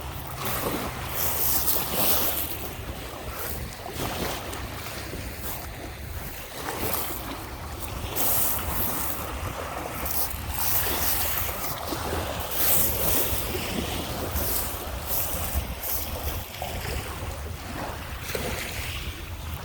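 Lake Michigan waves washing onto the beach in repeated surges, with wind rumbling on the microphone.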